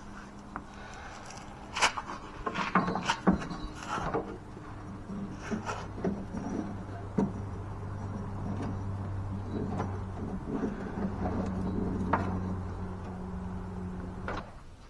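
Metal knocks and clicks from hands working on a zero-turn mower's deck and drive belt, then a steady low hum that runs for about ten seconds and cuts off suddenly near the end.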